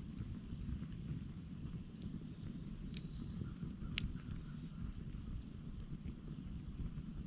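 Campfire burning, with a steady low rush of flames and scattered small crackles. A sharper pop comes about four seconds in.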